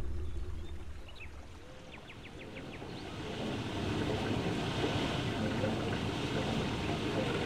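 Ambient ocean water sound: a steady wash of noise that swells in about three seconds in and holds, after a low rumble fades out at the start. A few faint high chirps sound before the water comes up.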